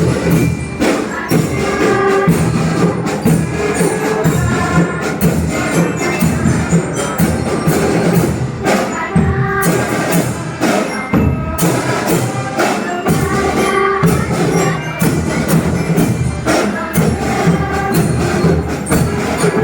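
Children's school choir singing with instrumental accompaniment and a steady percussion beat.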